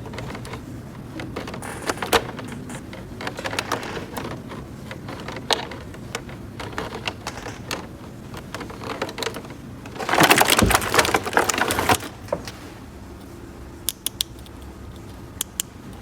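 Small plastic toy pieces being handled, with scattered light clicks and taps. About ten seconds in there is a louder rustling burst that lasts about two seconds.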